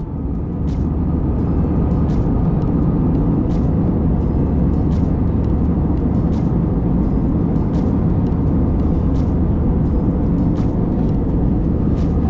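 Steady, loud cabin noise inside an Airbus A320 powered by IAE V2527E-A5 turbofans: engine hum and airflow, with a low drone and a few steady tones.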